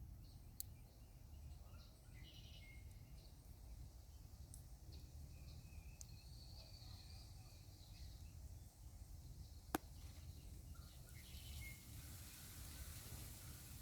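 Near-quiet outdoor ambience: faint, scattered bird chirps over a low rumble, with one sharp click about ten seconds in and a faint high hiss building near the end.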